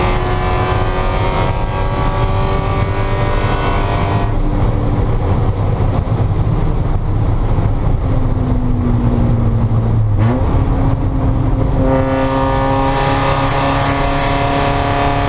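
Spec Miata's four-cylinder engine heard from inside the car, pulling under throttle, then lifting off about four seconds in. Several seconds of coasting follow, dominated by a rushing noise, with a brief falling then rising engine note near ten seconds. The engine is back on the throttle near the end.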